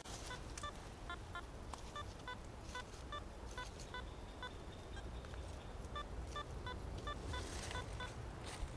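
Metal detector giving faint, short electronic beeps at a few different pitches, coming irregularly several times a second as it sweeps over targets in the ground.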